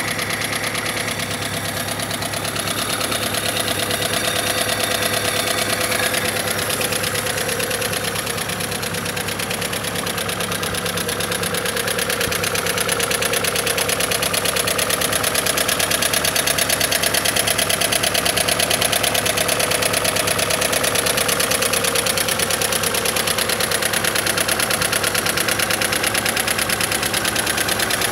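Willys F134 four-cylinder F-head engine running steadily at a fast idle, a little louder from about halfway through.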